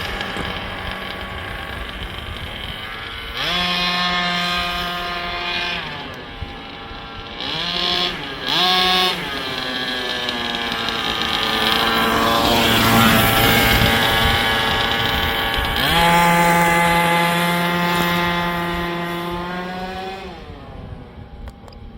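Small RC truck running, its motor note rising and falling as it is driven: it climbs and holds a steady pitch twice, with short blips and a rougher stretch in between, and fades out near the end. This is a test of a newly altered gear change point.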